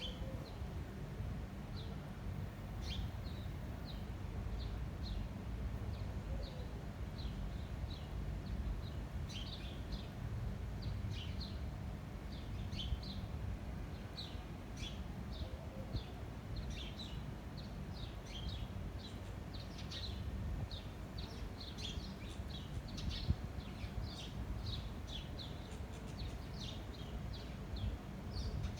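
Small birds chirping in short, high, repeated notes that grow busier from about nine seconds in, over a steady low rumble of wind.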